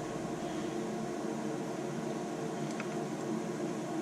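Steady mechanical hum with several constant tones, like a running fan or appliance, with a couple of faint small clicks.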